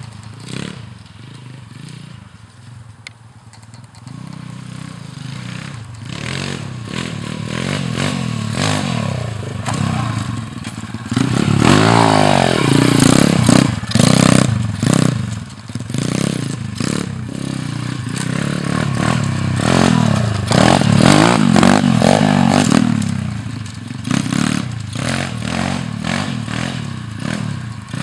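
Small four-stroke pit bike engine being ridden hard, revving up and easing off again and again. It is quieter in the first few seconds and loudest around twelve and again around twenty-one seconds in.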